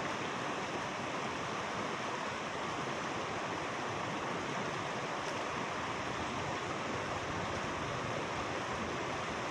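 Steady rush of a mountain stream's flowing water, an even hiss-like noise that does not change.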